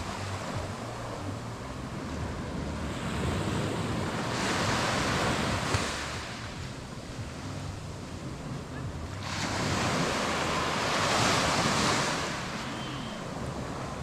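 Small waves breaking on a sandy beach, the surf wash swelling up twice and falling back, with wind buffeting the microphone.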